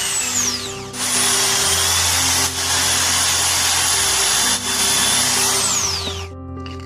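Small electric drill running: a high motor whine winds down in the first second, spins back up, runs steadily with two brief dips, and winds down near the end.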